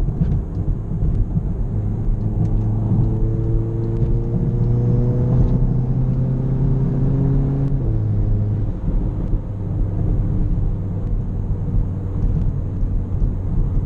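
Volkswagen GTI's turbocharged four-cylinder engine, upgraded with an IS38 turbo, pulling up through the revs for several seconds. It drops in pitch at an upshift about eight seconds in, then runs on at a steady cruise.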